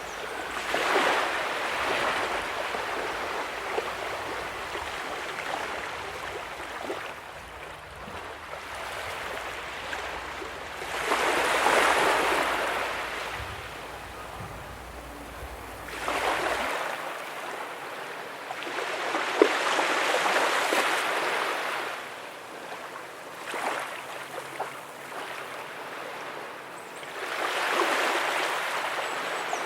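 Ocean waves breaking and washing up a beach, several surges of surf that each rise and fade over a few seconds.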